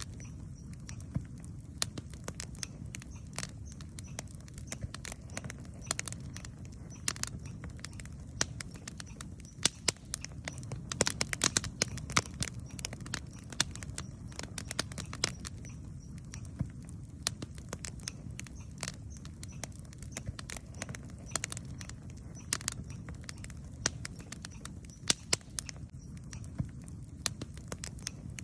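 Wood campfire burning, with a steady low rumble under frequent irregular sharp crackles and pops, which bunch together briefly a little before the middle.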